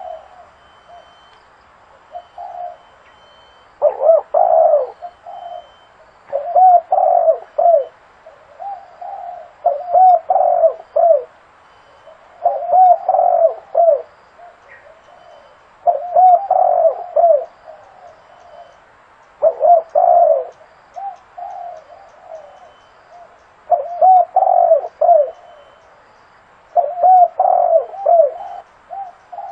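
Spotted dove cooing: short phrases of several hoarse coos, repeated every few seconds with pauses between.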